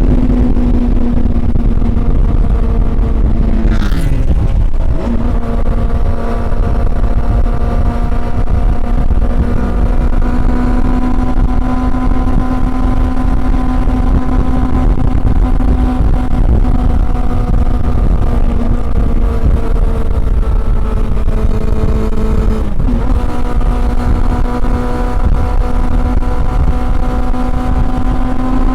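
Honda CB400 Super Four inline-four engine under way at a fairly steady engine speed. The note breaks and changes pitch briefly about four seconds in and again about twenty-three seconds in.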